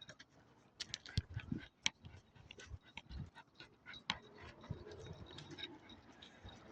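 Faint sounds from a pet dog, with scattered small clicks and taps at irregular intervals.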